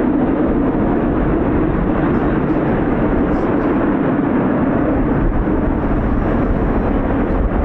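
Steady roar of Red Arrows BAE Hawk T1 jets, their Adour turbofans running at display power with no rise or fall.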